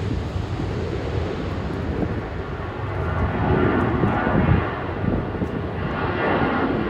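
Airliner engine noise: a steady, broad rumble, heaviest in the low end, that swells a little around the middle.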